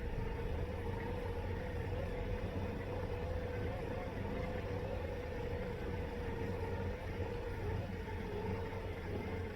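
Robotic lawn mower's electric motors running, heard close up from a camera taped to the mower: a steady, slightly wavering whine over a low rumble.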